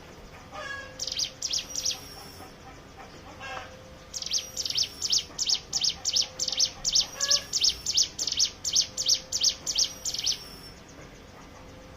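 Ciblek gunung (a prinia) singing. A few short high chirps come first, then from about four seconds in a fast, even run of sharp high notes, about three a second, lasting some six seconds. This is the rapid rattling delivery that bird keepers call "ngebren".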